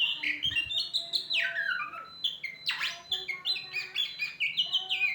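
A songbird singing a fast, unbroken run of short varied chirps and trills, jumping in pitch from note to note.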